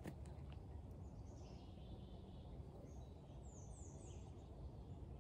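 Quiet woodland ambience with a steady low rumble, and a bird chirping faintly: a quick run of three high, falling chirps about three and a half seconds in.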